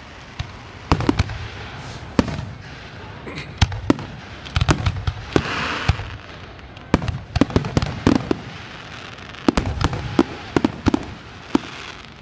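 Aerial fireworks going off: many sharp bangs at irregular intervals, some in quick clusters, with a short spell of hissing crackle about five seconds in.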